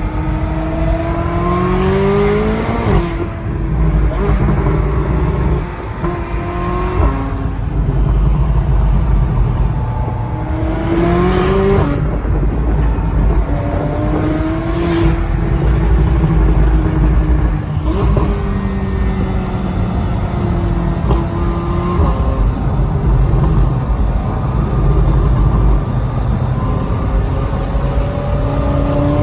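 McLaren 570S twin-turbo V8 with sport exhaust, heard from inside the cabin, accelerating hard. The engine pitch climbs and drops back several times as it shifts up through the gears, over a steady low rumble.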